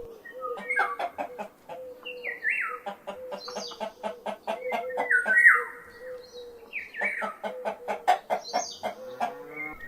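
Domestic hen clucking: quick runs of short clucks broken by longer, higher calls that drop in pitch.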